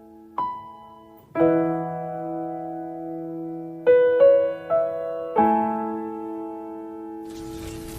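Slow, soft piano background music, single notes and chords struck a few times and left to ring. Near the end a steady hiss comes in under the piano.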